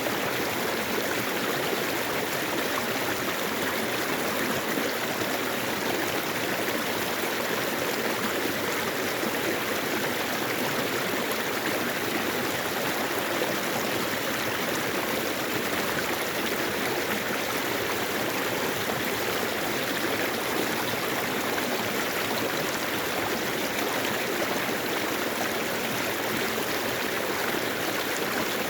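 Mountain valley stream flowing: a steady, continuous rush of running water with no breaks or changes.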